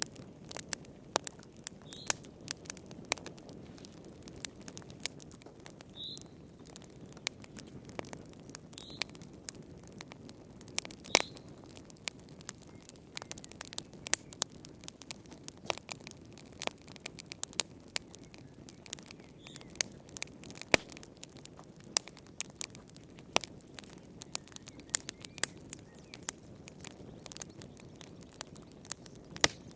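Wood fire in a fireplace crackling: irregular sharp pops and snaps over a steady low rush of the flames, with a few short high squeaks in the first half.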